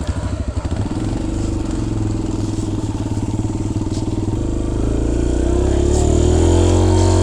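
Four-stroke dirt bike engine running: slow, lumpy pulses at first, then a steady note that climbs in pitch and grows louder over the last few seconds as the bike pulls away.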